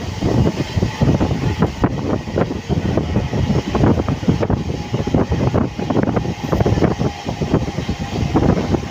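Roha–Diva MEMU electric train running at speed, heard from on board: a continuous rumble with irregular clatter of wheels over the rails.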